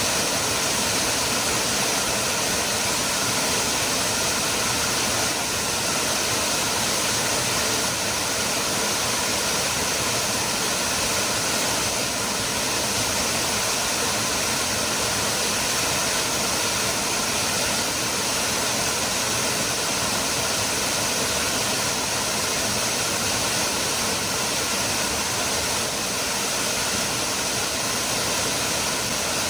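Cascada del Hervidero waterfall: a steady, unbroken rush of falling water with a strong hiss.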